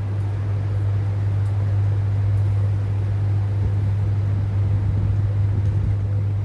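A steady low hum throughout, with faint scattered ticks above it.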